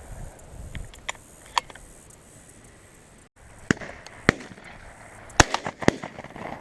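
Shotguns firing at doves: a few faint, distant shots in the first two seconds, then a quick string of louder, closer shots in the last three seconds.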